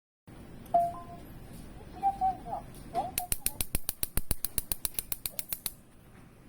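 A fast, even run of sharp clicks, about nine a second for some two and a half seconds, after a few short tones and chirps.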